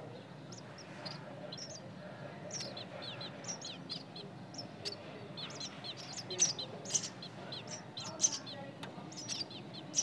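Nestling birds calling: a dense run of short, high, downward-sliding chirps, several a second, with a few louder chirps in the second half.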